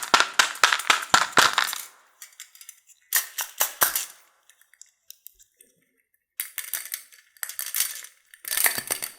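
Small hard toy pieces clicking and clinking as they are handled, a quick run of clicks for about two seconds, then short bursts of clatter with quiet gaps between.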